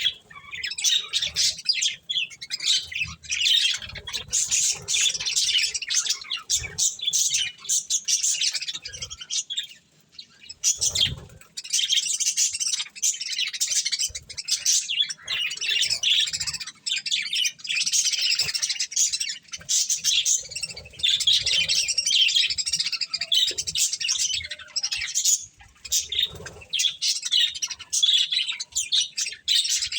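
Budgerigars chirping and chattering continuously in a dense, high-pitched twittering, with a short pause about ten seconds in. Frequent small clicks and taps run through it.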